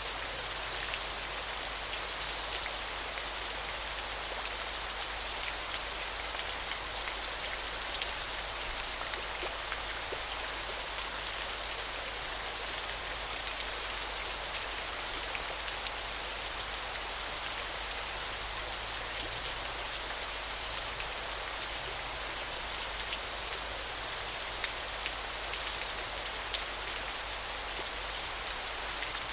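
River water flowing and splashing, a steady even hiss. A thin high tone sounds twice in the first few seconds, and a louder high buzz rises over the water for several seconds past the middle.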